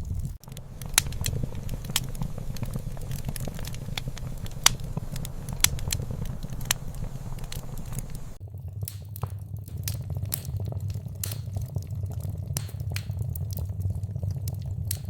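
Wood fire crackling: irregular sharp pops and snaps over a steady low rumble of burning. The sound dips out briefly just after the start, and the faint hiss above the rumble thins out about eight seconds in.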